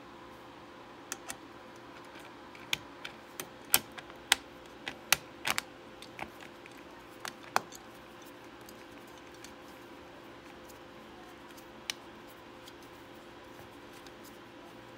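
Irregular sharp clicks and taps of computer parts being handled and fitted on a motherboard, about a dozen clustered in the first half, with one more later, over a faint steady hum.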